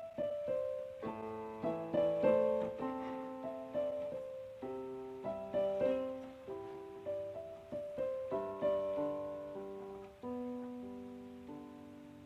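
Background piano music: a slow, gentle melody of single struck notes and chords, each ringing out and fading.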